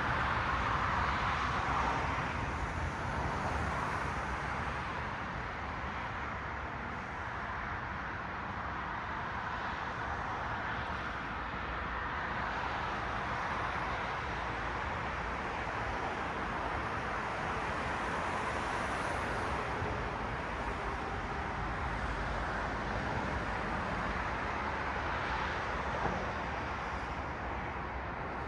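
Road traffic: cars passing on a city street, a steady tyre-and-engine noise that swells slightly at the start as a car goes by. A single faint click comes near the end.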